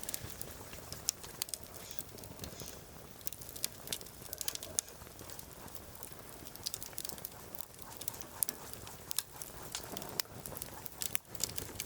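Firewood burning in a campfire, crackling with irregular sharp snaps over a soft hiss.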